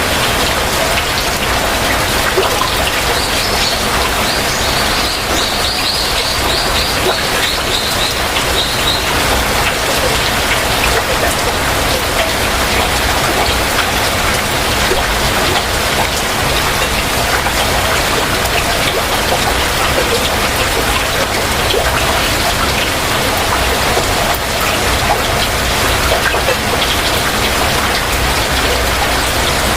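Heavy rain falling steadily. A few seconds in, a bird calls a quick run of high notes that falls slightly over several seconds.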